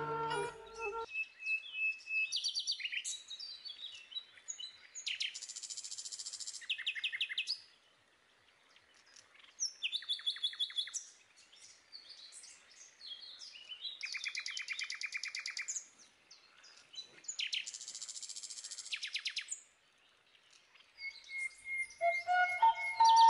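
Songbirds singing: four rapid high trills of about two seconds each, with scattered high chirps between them. Music comes in near the end.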